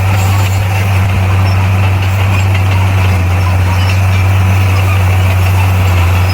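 Heavy earthmoving machine's diesel engine running steadily with an even, low hum that holds constant throughout.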